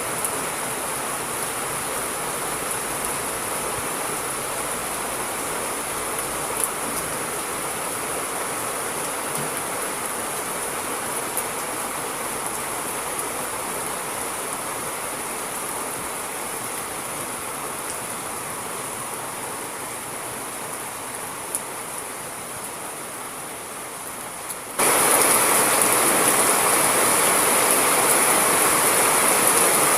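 Steady rain hiss with a few faint ticks of drops, easing slightly, then switching abruptly to a louder, brighter downpour about 25 seconds in.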